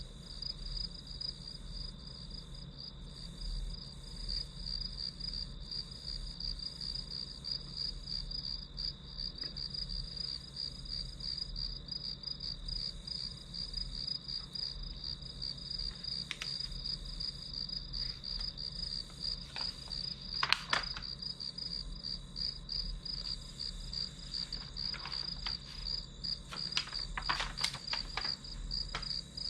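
Crickets chirping in a steady, fast pulsing trill. Several sharp clicks and taps come in the second half.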